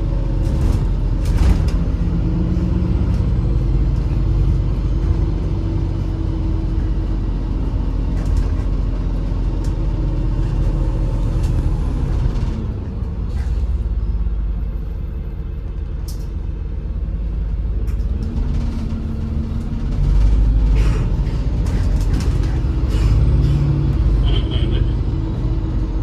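Inside a moving MAZ-203 city bus: the engine runs with a steady low rumble, and short rattles and clicks come from the body. The engine note eases off in the middle and picks up again about two-thirds of the way through.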